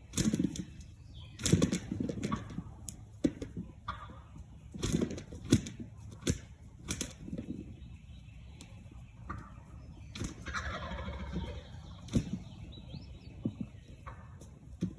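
Wild turkeys gobbling in the field, with a run of sharp clicks and knocks in the first half and a longer warbling call about two-thirds of the way through.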